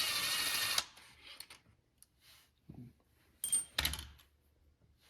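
Air impact wrench runs in a short burst of about a second at the start, loosening a tight oil filter cover bolt. A few sharp metallic clinks follow a little past the middle.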